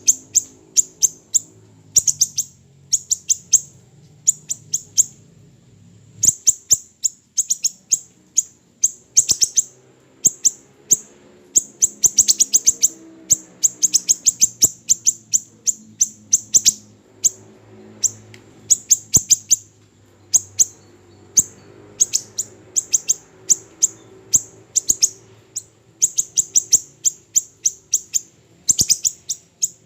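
Siri-siri kecil songbird singing: fast volleys of short, sharp, very high chirps in clusters of several notes, broken by brief pauses, over a faint low background hum.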